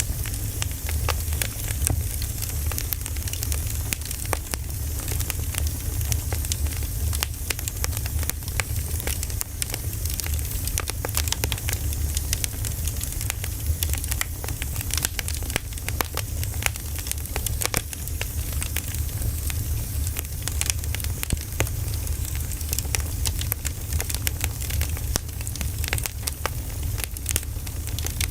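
Burning firewood crackling, with dense, irregular pops and snaps over a steady low rumble.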